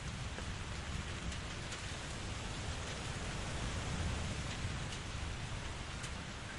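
Steady rain, a constant hiss of falling water with scattered sharp drop hits and a deep, even low rumble underneath.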